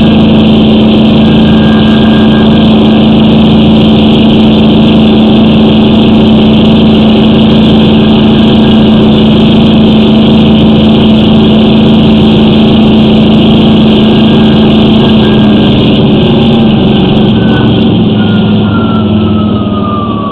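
Sewer hydro-jetter's engine and high-pressure pump running steadily, driving water through the jetting hose to clear the sewer line. Near the end a whine falls in pitch and the sound eases off.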